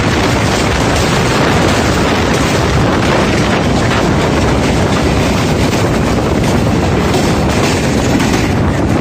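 Pakistan Railways passenger coaches rolling past at close range over a bridge, their wheels clattering steadily on the rails. Heavy wind buffeting on the microphone of the moving motorcycle blends with the clatter.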